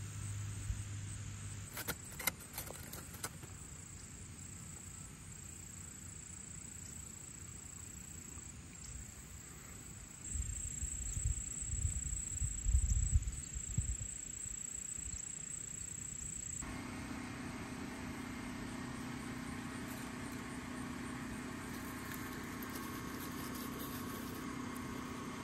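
Steady high chirring of insects with a few clicks and some low knocks and rumbling. About two-thirds of the way through, the sound changes abruptly to a vehicle engine idling with a steady low hum.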